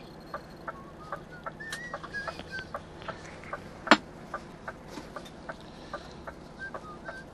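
Even, rapid ticking, about three ticks a second, with short bird chirps over it and one sharp knock about four seconds in.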